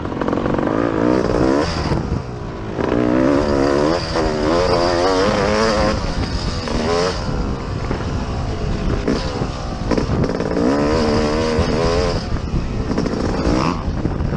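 Motocross dirt bike engine revving hard and falling off again and again as the rider works the throttle around the track, with rushing noise underneath.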